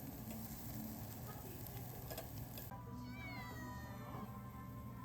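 Meat sizzling on a barbecue grill with small crackles. About two and a half seconds in it cuts abruptly to background music, with a falling, meow-like gliding tone over steady held notes.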